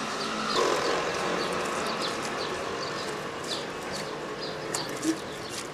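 Small birds chirping over and over, with short high chirps coming a few times a second. Near the end there is a single brief knock.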